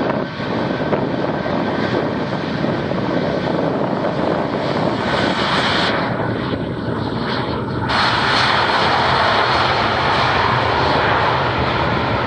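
Boeing 757's jet engines running loud and steady, a dense rush of engine noise. The hiss thins out briefly about six seconds in, and the sound is a little louder from about eight seconds on.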